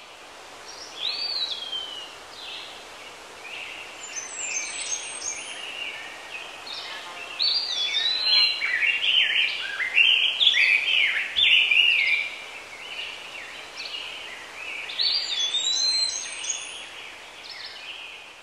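Birdsong: several birds chirping and singing in quick, rising and falling calls over a steady faint hiss, busiest in the middle.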